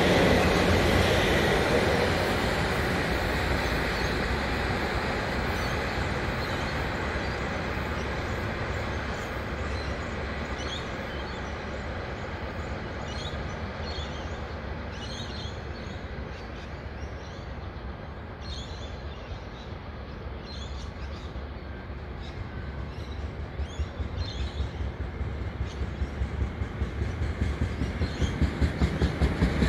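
Passenger train rumbling away along the tracks, fading over about twenty seconds. From about 23 s a two-car diesel railcar set approaches, its wheels clacking rhythmically over the rail joints and getting louder toward the end.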